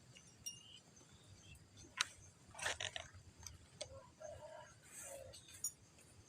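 Scattered sharp clicks and rustling, the loudest click about two seconds in and another near the end, with a few faint, short, low coo-like notes in between.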